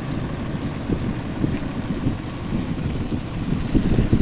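Pickup truck creeping down a slushy, thawing dirt road: an uneven low rumble with jolts and buffeting, with wind on the microphone.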